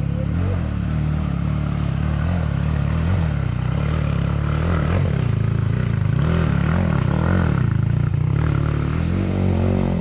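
Enduro dirt bike engine running hard, its revs rising and falling over and over.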